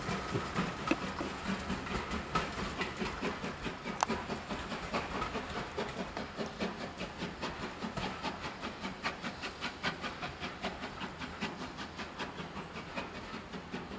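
Passenger train pulling away and receding down the line, a regular beat of sharp clicks, about two a second, over a steady hiss, slowly fading as it goes.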